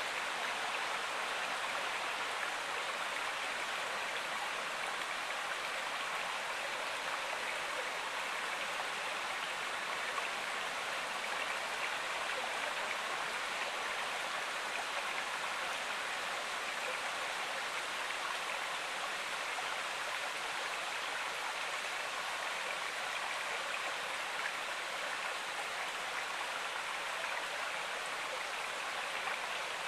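River water flowing, a steady even rush with no breaks or distinct splashes.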